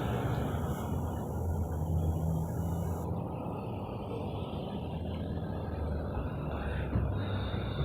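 Steady low rumble of a motor vehicle running, its pitch shifting slightly now and then.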